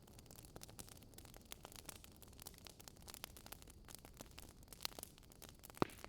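Quiet crackling of a wood campfire: irregular sharp snaps, with one louder pop near the end.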